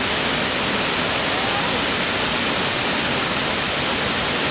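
Natural waterfall: the steady, even rush of falling water.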